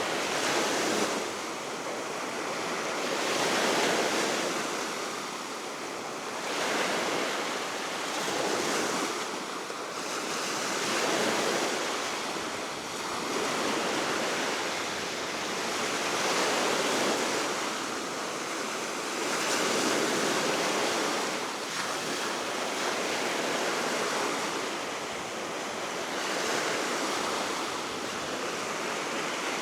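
Waves breaking and washing on the Baltic Sea shore in a steady wind, the surf swelling and ebbing every few seconds, with some wind buffeting the microphone.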